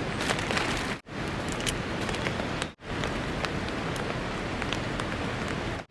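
Steady rainfall with scattered sharp drop ticks, cut off twice for an instant, about a second in and near three seconds.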